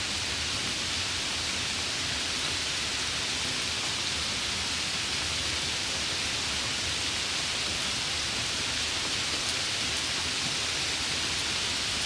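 Steady rain, an even hiss of falling drops that does not change.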